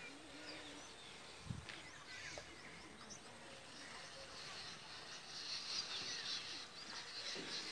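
Birds chirping outdoors in many short, quick calls that grow busier near the end, with a soft thump about a second and a half in.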